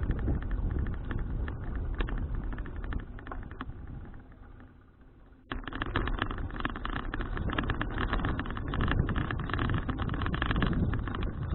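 Riding noise from a bicycle-mounted action camera: wind buffeting the microphone, with frequent small clicks and rattles. It dies down about four to five seconds in, then cuts back in abruptly.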